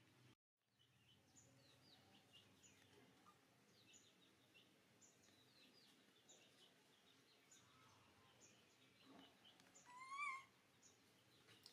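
Faint, scattered bird chirps, many short high notes, with one louder, wavering high call about ten seconds in.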